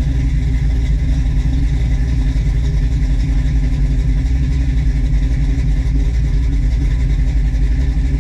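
1967 Chevy Nova's small-block V8 idling steadily on a newly fitted FiTech 600 hp fuel-injection system, soon after its first start; the system is still learning its idle.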